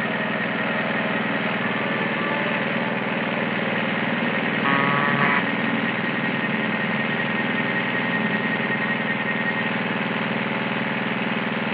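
Petrol lawn mower engine running steadily, with a brief higher-pitched sound about five seconds in.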